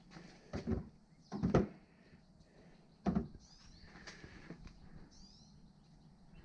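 Three clunks of metal suspension parts being handled and set down, the loudest about a second and a half in.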